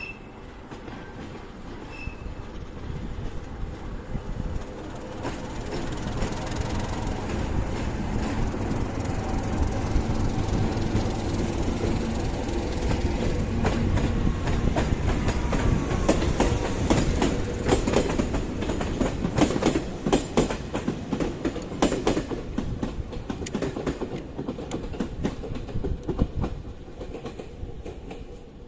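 A train running through the station, its sound building steadily, with wheels clicking over rail joints and points most densely past the middle before easing toward the end.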